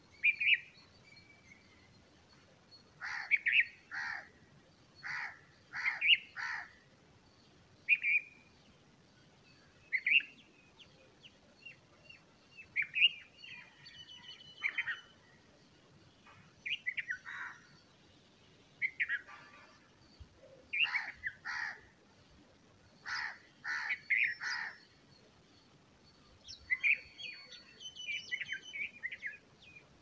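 A bird calling: short, loud chirps in quick groups of two to four, repeated every second or two, with a faster run of chirps near the end.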